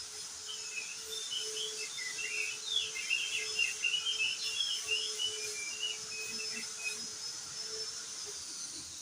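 Crested white-eye (opior jambul) singing a fast, jumbled run of short, high twittering notes that starts about half a second in and stops near seven seconds, over a steady high insect-like whine.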